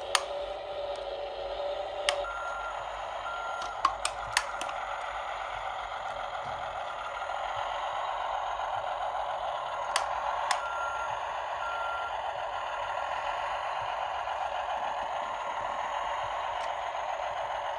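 Tonka Power Movers toy excavator playing its electronic engine sound effect through a small speaker. Two pairs of short high beeps like a reversing alarm come a few seconds in and again near the middle, with sharp plastic clicks from the toy being worked.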